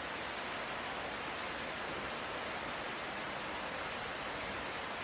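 Light rain falling steadily, an even hiss with no thunder.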